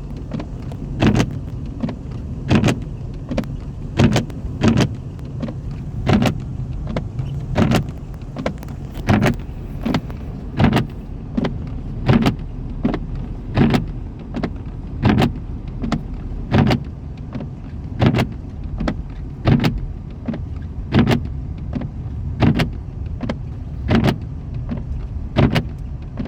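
Inside a running car: a steady low rumble, with windshield wipers knocking at each end of their stroke about every second and a half.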